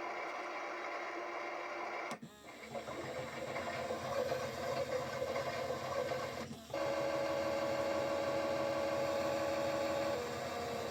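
Small electric motor of a toy Bosch washing machine running with a steady whirring hum. It cuts out briefly about two seconds in and again a little after six seconds, then runs on with a steady tone whose pitch drops slightly near the end.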